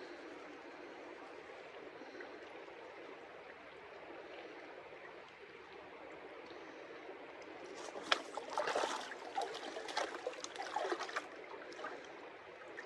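A river running steadily in the background. A little past the middle, for about three seconds, water splashes and sloshes up close as a gold pan is worked in the water.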